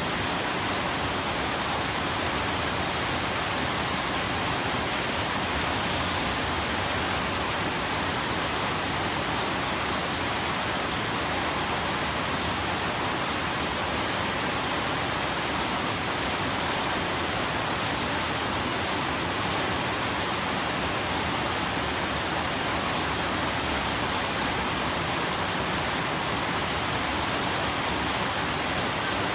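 Steady rain, an even, unchanging hiss with no separate drops, gusts or thunder standing out.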